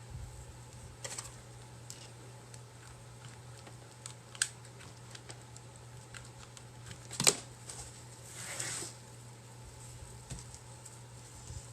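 Hands working rope around a clay pot: a few light clicks and taps, one sharper click about seven seconds in, and a short rustle soon after, over a steady low hum.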